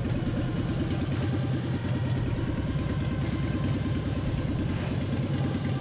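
Harley-Davidson Softail Standard's V-twin engine running at low speed with a steady pulsing rumble as the motorcycle rolls slowly along.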